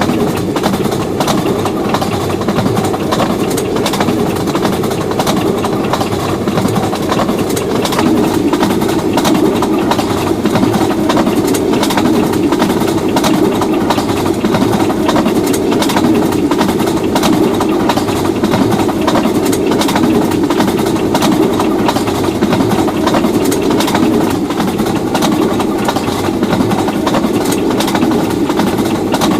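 Diesel locomotive engine running steadily with a dense low rumble, a little louder from about eight seconds in.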